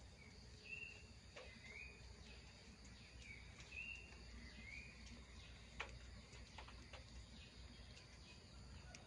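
Faint outdoor background with a small bird giving about five short, high chirps over the first five seconds, and a few faint sharp clicks, the strongest about six seconds in.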